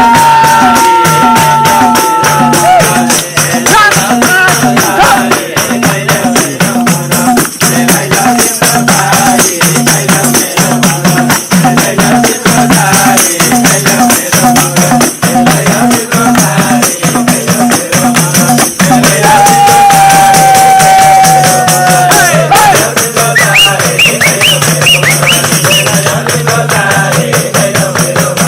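Live Nepali folk music in an instrumental stretch between verses: fast, steady hand percussion with jingling tambourine, and a few long held high notes near the start and again about two-thirds through.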